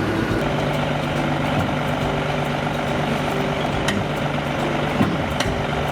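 A heavy truck engine running steadily at low revs, with a couple of sharp clicks in the second half.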